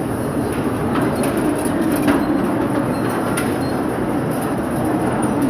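Steady rumble and rattle of a moving vehicle, with a few sharp clacks about a second apart.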